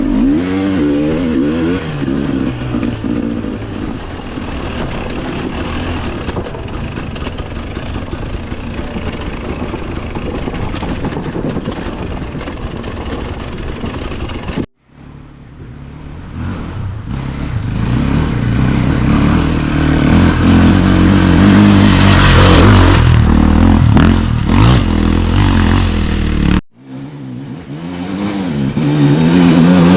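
Dirt bike engine revving up and down and running under load, with wind noise and clatter. The sound cuts off abruptly twice, about halfway through and again near the end.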